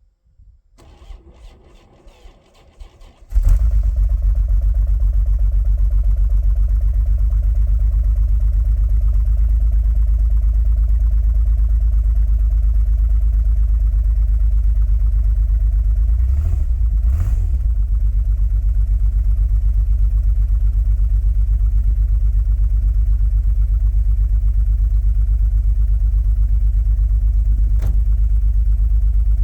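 A 1989 Dodge Ram D250's 3.9-litre V6 is cold-started in deep cold after sitting for a month: a few seconds of quieter cranking, then the engine catches about three seconds in and settles into a steady idle. About halfway through the engine note briefly rises and falls.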